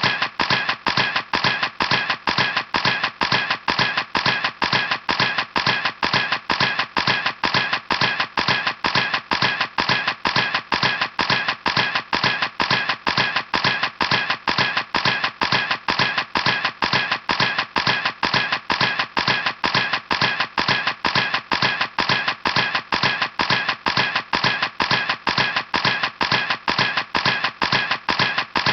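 Camera shutter clicking over and over at an even rate, about three clicks a second.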